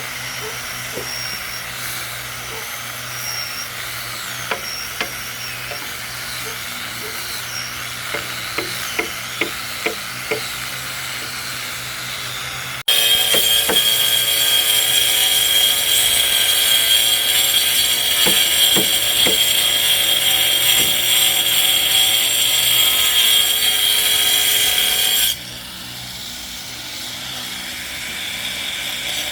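Scattered light knocks and taps at first. Then, about 13 seconds in, a handheld electric power tool starts abruptly and runs steadily with a high whine on wood for about twelve seconds before cutting out.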